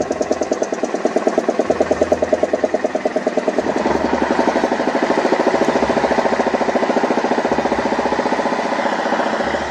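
Heavy truck's diesel engine running with a rapid, even pulsing beat; the beat quickens and grows a little louder about four seconds in.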